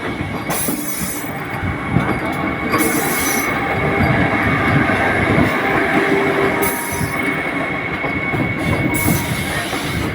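Vande Bharat Express train running on the rails: a steady rumble with a high, steady wheel squeal, and short bursts of hiss coming and going.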